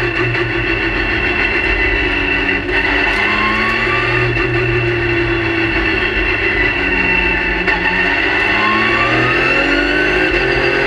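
Race car engine heard from inside the cockpit, running hard on track; its pitch rises as it accelerates about three seconds in and again near the end, with a steady drone between.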